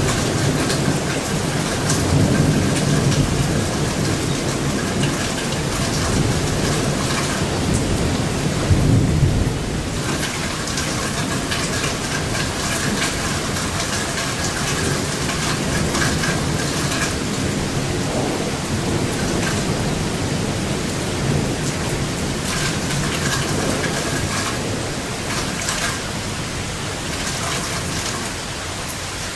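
Steady heavy rain with thunder rumbling, swelling about two to four seconds in and again around nine seconds.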